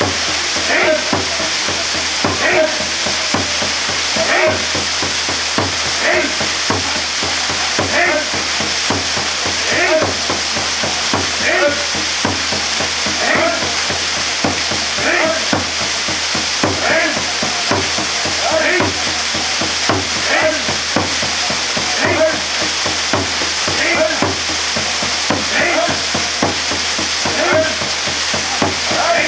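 Waterfall pouring steadily, a dense even rush of falling water. Under it, something faint repeats a little under once a second.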